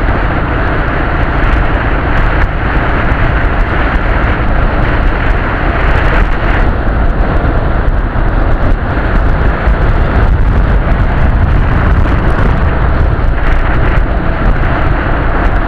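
Dnepr motorcycle's boxer-twin engine running during a ride, with a heavy low rumble that stays steady and loud throughout.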